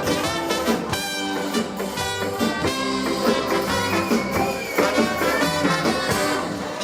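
Live ska band playing, with a brass section of trumpet and trombone carrying the melody over the rhythm section.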